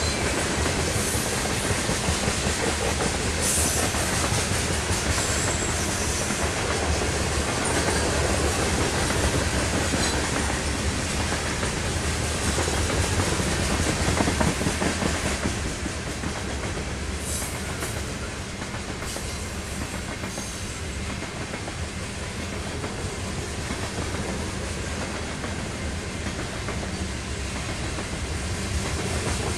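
Loaded covered hopper cars of a freight grain train rolling past, steel wheels rumbling and clacking on the rails in a steady stream, a little quieter in the second half.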